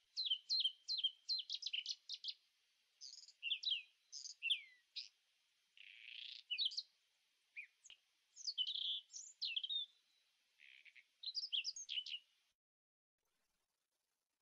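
Small bird singing: clusters of rapid, short sweeping chirps and trills with brief pauses between them. The song cuts off abruptly near the end.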